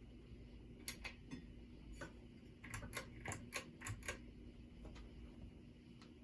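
Hunter Covington ceiling fan's three-speed motor running with a faint steady hum. Irregular sharp ticks and clicks come over it, with a quick run of about eight a little under three seconds in.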